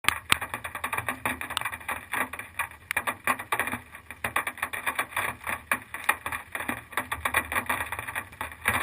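Dense, irregular crackling and clicking that starts suddenly and keeps up without a steady rhythm.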